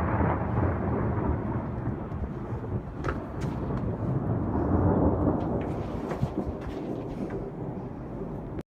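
Thunder from a nearby lightning strike: a long rolling rumble that swells to its loudest about halfway through, then cuts off suddenly near the end.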